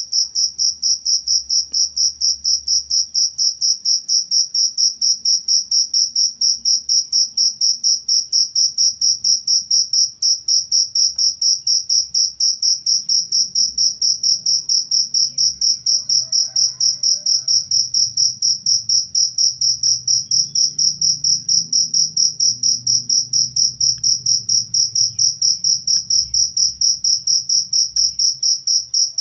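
Cricket chirping steadily: a loud, high-pitched, evenly pulsed chirp repeating about four to five times a second without a break.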